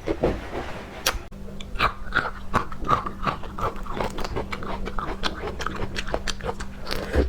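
Close-up mukbang eating sounds: a person biting and chewing seafood, with a run of wet smacks and crunchy clicks several times a second.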